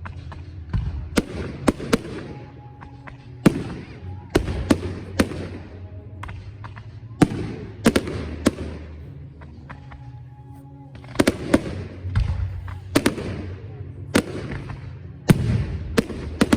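Fireworks display: aerial shells bursting in sharp bangs, often two or three in quick succession, every second or two, each trailing off as it dies away.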